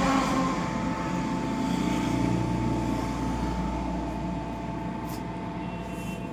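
Steady machine running noise, a low rumble with a faint steady whine, gradually getting quieter.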